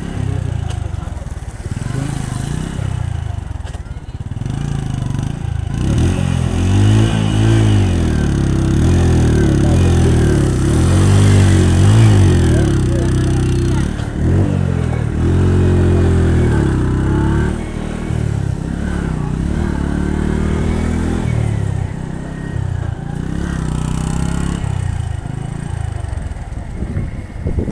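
Motorcycle engine running while riding, its pitch rising and falling again and again as the throttle opens and closes, over steady road and wind noise.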